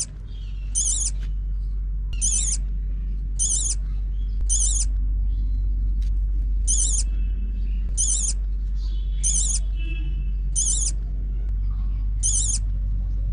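A small bird's short, high, quavering call, repeated about ten times at a bit over a second apart, over a steady low rumble.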